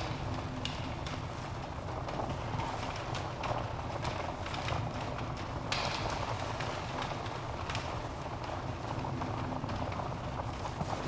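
Wood fire burning in a fireplace: a steady roar of flames with irregular crackles and sharp pops from the logs, the loudest snap about six seconds in.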